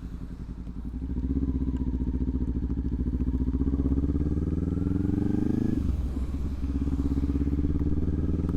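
Motorcycle engine under way: about a second in it gets louder and the revs climb steadily through a gear, then drop suddenly a little past the middle as it shifts up, and run steady after.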